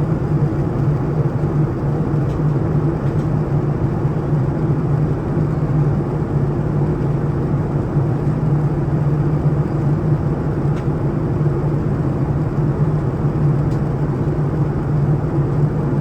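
Steady cabin drone of a Boeing 787-9 airliner in cruise, heard from inside the cabin: an even, unchanging low hum of engine and airflow noise.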